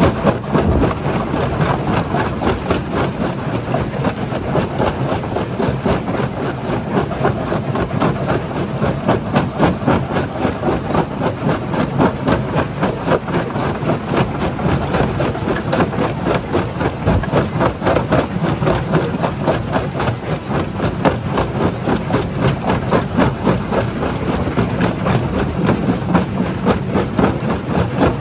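Rock jaw crusher running under load, rock clattering and cracking continuously over a steady heavy engine drone.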